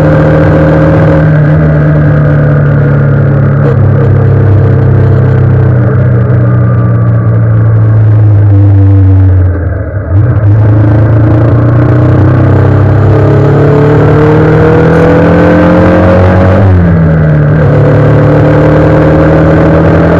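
Honda CBR 125R's single-cylinder four-stroke engine running under way: its pitch sinks slowly through the first half, dips briefly about halfway, then climbs, drops sharply about three-quarters of the way through, the pattern of a shift up a gear, and climbs again.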